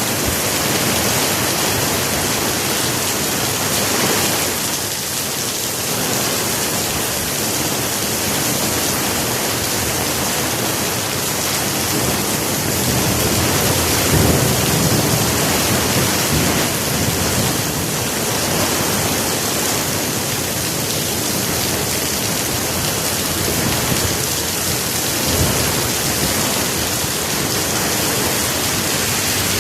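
Heavy rain falling steadily, a dense, even hiss that swells slightly now and then.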